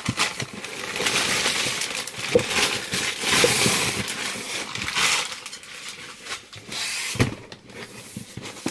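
Paper packing in a cardboard box rustling and crinkling as hands rummage through it, with small knocks; it thins out about two-thirds of the way through, and there is one sharper knock just after that.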